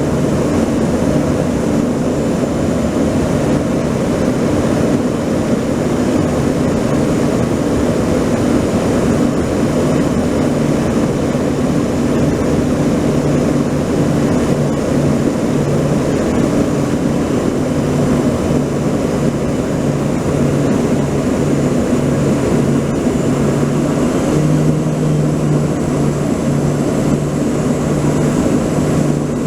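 A loud, steady engine drone with a low, unbroken hum.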